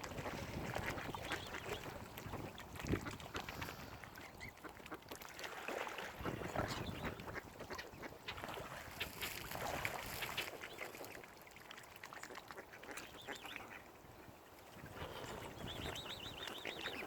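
Waterfowl calling on and off: many short, irregular calls over a low background haze.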